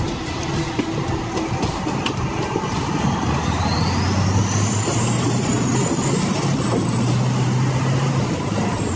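Heavy vehicle's engine running steadily, with a thin high whine that rises about three seconds in and holds.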